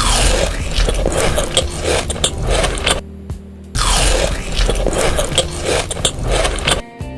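Close-up chewing and crunching of crisp food, in two loud bouts of about three seconds each with a short pause between, over background music.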